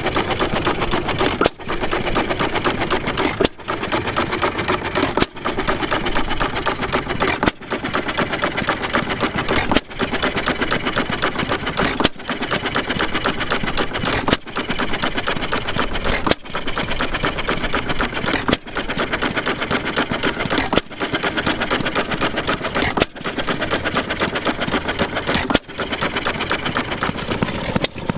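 Antique engine-show machinery running with a rapid, steady clatter, broken by a short dip about every two seconds.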